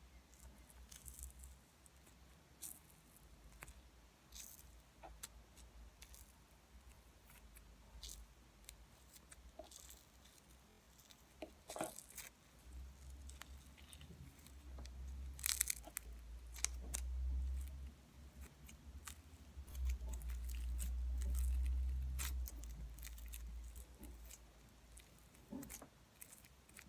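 Hardened, sticky slime being handled and pulled, giving scattered crackles, pops and tearing clicks. A deep rumble from hands working it swells twice in the second half.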